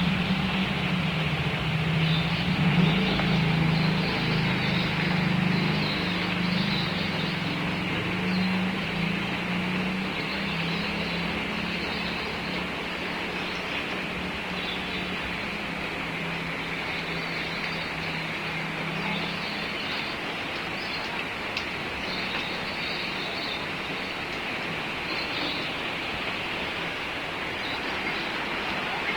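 Steady hiss of rain, with a low engine hum underneath that fades out about two-thirds of the way through.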